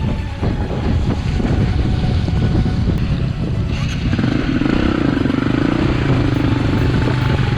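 Four-stroke dirt bike engine, a KTM 250 EXC-F, running under throttle while riding. About four seconds in it settles into a steadier note.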